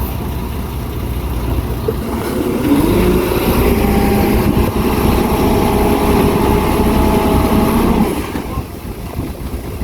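Heavy machinery engine running with a low rumble. About two and a half seconds in, it swells into a louder, steady, higher engine note under load, which holds for about five seconds and then drops back.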